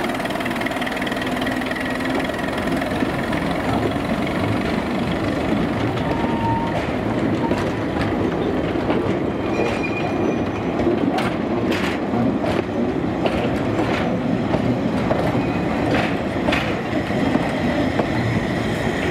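A short train of narrow-gauge freight wagons rolling slowly past behind a small locomotive: a steady rumble of wheels on rail, with sharp clicks and knocks from the wheels and couplings in the second half.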